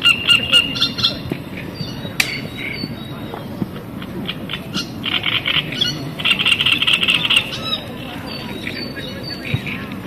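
Small songbirds singing and calling in short repeated phrases, with a fast dense trill about two-thirds of the way through, over a low steady outdoor murmur. A single sharp click about two seconds in.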